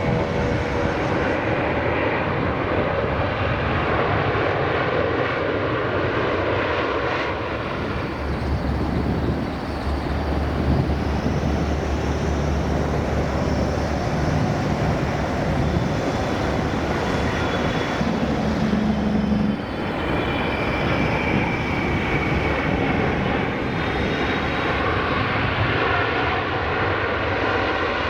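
Jet airliners landing: the Rolls-Royce Trent 900 engines of a Qantas Airbus A380 give way, about eight seconds in, to the GE90 engines of a Delta Boeing 777-200LR on approach, a steady rush of jet noise with high whining tones that rises and falls as it passes.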